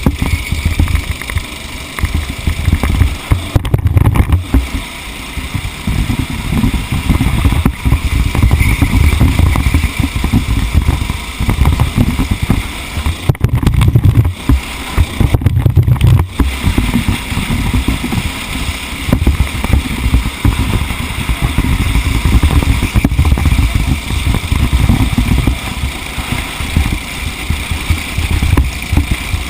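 Racing vehicle's engine running at speed, heard onboard as a loud, uneven low rumble mixed with wind noise, with a few brief dips.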